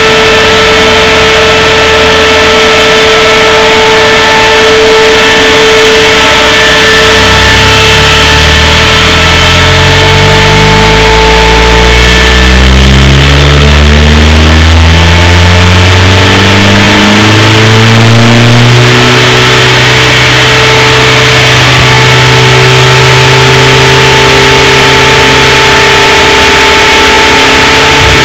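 Loud turbocharged Opel C20LET 2.0-litre 16-valve four-cylinder running on a chassis dyno: about a quarter of the way in its revs start climbing in several rising steps, then hold high and steady through the last third. A steady whine runs over the engine during the first half.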